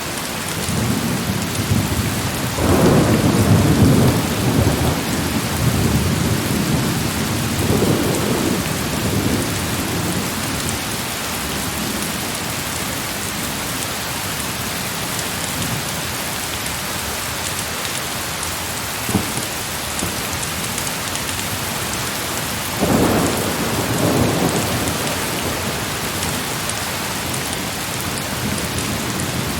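Steady heavy rain with thunder: a long low rumble builds a couple of seconds in and fades over several seconds, and a second, shorter rumble comes about two-thirds of the way through.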